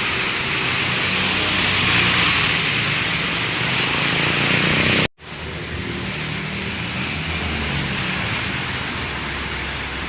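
Road traffic on a wet road: the low drone of passing heavy vehicles' engines under a steady hiss of tyres on wet asphalt and rain. The sound cuts out abruptly for a moment about halfway through, then resumes.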